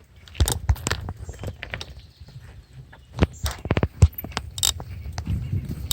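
Bicycle rattling while riding: irregular clicks and knocks over a low rumble, with a quick run of clicks a little past three seconds in.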